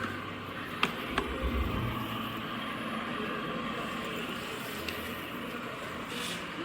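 Dreame H12S wet-dry vacuum's motor running steadily, with two sharp clicks about a second in.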